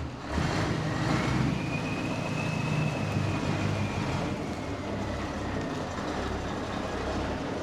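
Scania 143's V8 diesel engine running steadily as the truck is manoeuvred at low speed.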